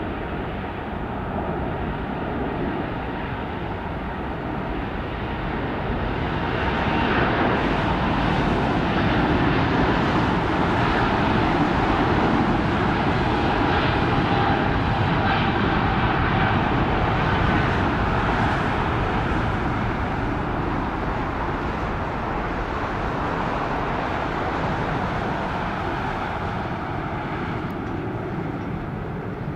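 Boeing 777 jet engines at takeoff thrust: a steady roar that swells about seven seconds in, stays loudest for some ten seconds, then slowly fades.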